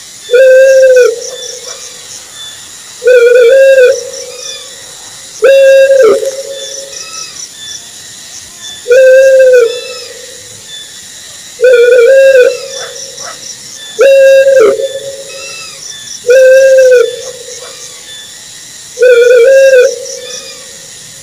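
Owl hooting: a single arched hoot repeated about every two and a half to three seconds, eight times, some hoots with a short second note.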